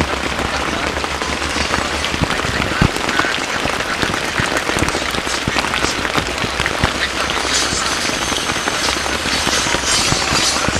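Heavy rain falling steadily, with many close drops ticking sharply on a surface.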